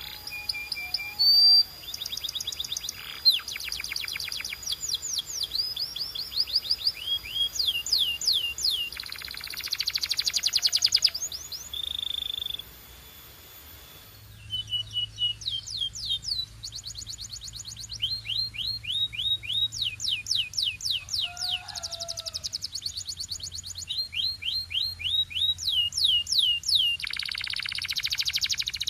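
Domestic canary singing: fast trills of rapidly repeated downward-sweeping notes, with a few buzzy rolls and a short pause about halfway through.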